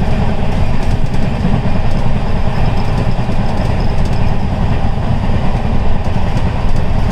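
Steady loud rumble of a moving express train, heard from inside a passenger coach: the clatter of wheels on rails and the running noise of the carriage.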